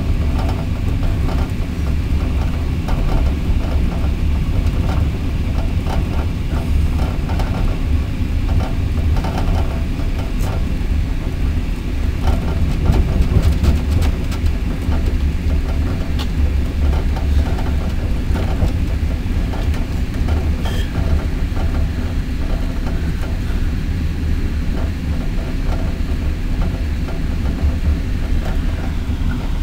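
Steady low rumble of a passenger train running at speed, heard from inside its carriage, with scattered light clicks and knocks.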